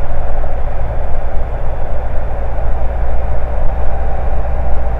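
Cessna Cardinal's piston engine and propeller droning steadily in the cockpit, throttled back to reduced power for the descent in the landing pattern.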